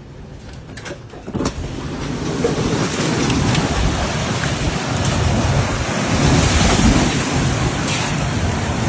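Strong tornado wind and rain rushing over the microphone. The noise jumps up sharply about a second and a half in, after a few sharp clicks, and stays loud.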